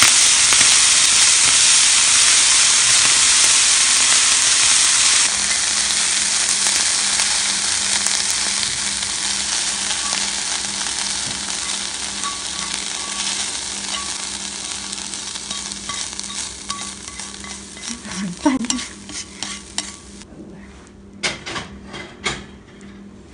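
Corn kernels sizzling in butter in a frying pan as they are stirred with chopsticks. The sizzle dies away steadily with the burner just turned off. Near the end come a few sharp clicks and scrapes as the corn is tipped out of the pan onto a plate.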